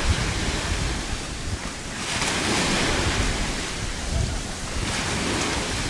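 Ocean waves washing in, the hiss swelling about every three seconds, with wind buffeting the microphone.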